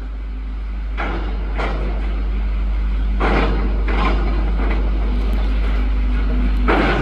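Demolition excavator pulling down part of a concrete building: a steady low rumble with a series of crashes and clatters of falling debris. The heaviest crashes come about three seconds in and near the end.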